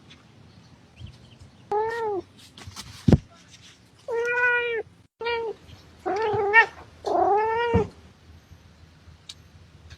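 Domestic cat meowing five times, some meows short and some drawn out and wavering. A single sharp knock sounds about three seconds in.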